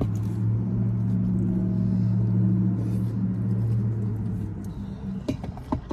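A long, low, steady burp lasting about four and a half seconds, then a few small clicks near the end.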